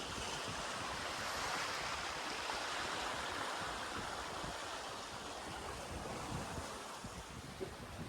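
Water rushing and splashing along the hulls of a Lagoon 42 sailing catamaran under sail with the engines off, with wind on the microphone. A steady wash that eases slightly near the end.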